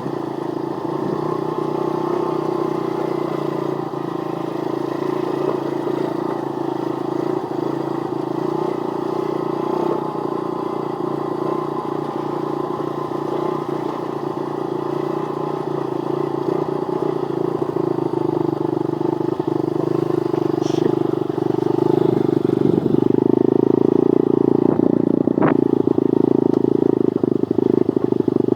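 Pit bike's small single-cylinder engine running steadily under way, getting louder about three-quarters of the way through.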